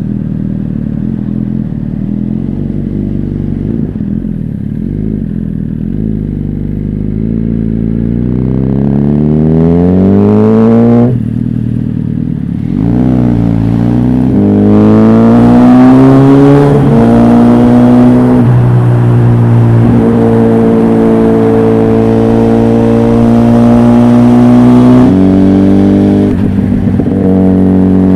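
Motorcycle engine with an aftermarket full exhaust: a steady idle for several seconds, then the revs climb for a few seconds and fall away sharply about eleven seconds in. The revs climb again and settle into a steady high run, stepping in pitch twice more.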